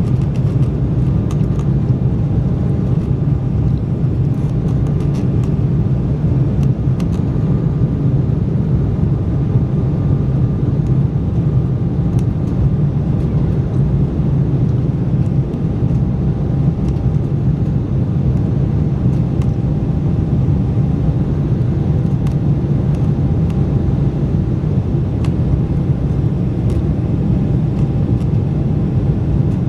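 Steady cabin noise of an Embraer 190 jet airliner: a loud, even, low rumble from its twin turbofan engines and the airflow, with a faint steady whine above it.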